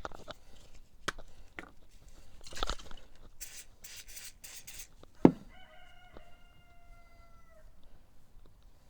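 Small clicks and rubbing from handling parts, then a sharp knock about five seconds in. Right after, a rooster crows once in the background, ending on a held note of about two seconds.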